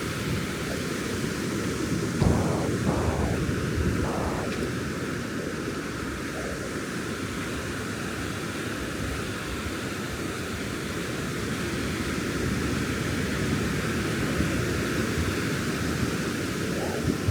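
Steady wash of ocean surf breaking on a sandy beach, with a few brief louder swells a couple of seconds in.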